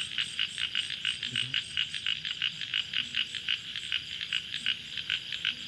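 An animal calling in a steady rhythm of short, high-pitched chirps, about five a second.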